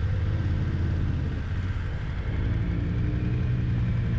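Motorcycle engine running steadily, a low even drone with a faint tone rising slightly about three seconds in.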